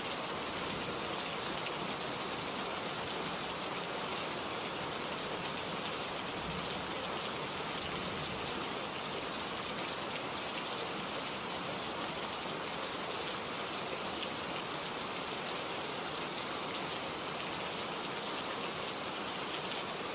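Heavy rain falling steadily on a wet street, an even hiss of drops that does not let up.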